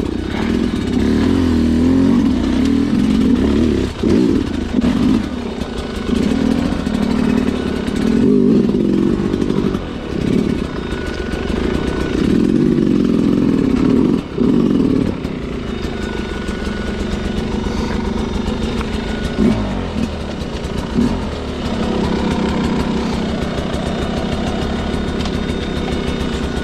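Sherco two-stroke dirt bike engine worked hard through a technical off-road section, its revs rising and falling with quick throttle cuts. After about fifteen seconds it settles to a lower, steadier run.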